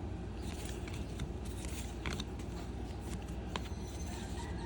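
Trading cards being handled and flipped through a stack, a few short papery snaps and slides of card on card, over a steady low background rumble.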